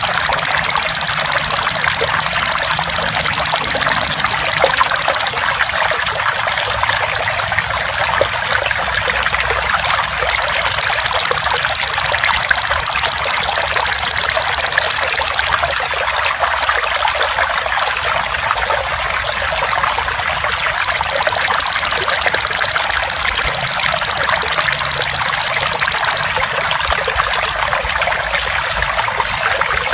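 Trickling water runs steadily under the shrill, fast-pulsed buzzing song of a belalang emas (golden grasshopper). The song comes in three stretches of about five seconds each, with about five seconds of water alone between them, and starts again right at the end.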